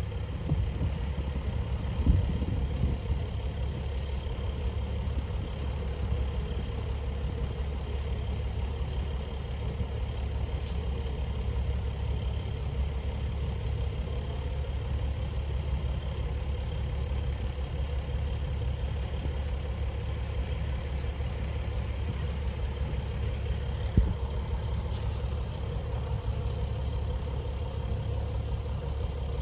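Heavy diesel machinery engine running steadily at a low, even pitch. Two sharp knocks stand out, one about two seconds in and one near the end.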